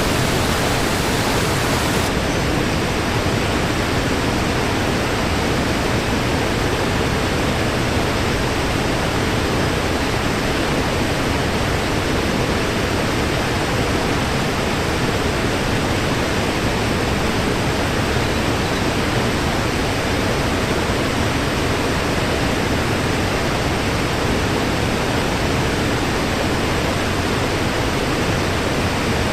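Waterfall rushing in a steady, even roar of falling water, its highest hiss dimming slightly about two seconds in.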